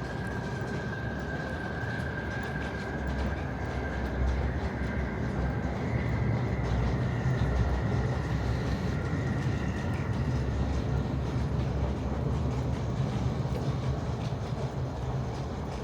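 A train running past: a steady low rumble that swells in the middle, with a faint high whine drifting slightly in pitch.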